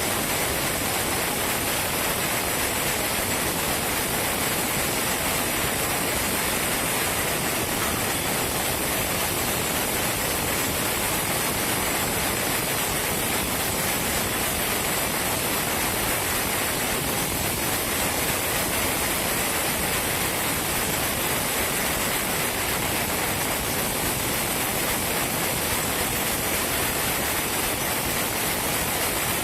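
Sawmill saw running with a steady, even hiss that stays unbroken throughout.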